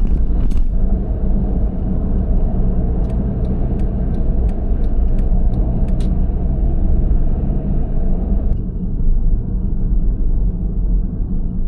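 A car driving, with a steady low rumble of engine and road noise. A run of light, evenly spaced ticks, about two or three a second, sounds a few seconds in.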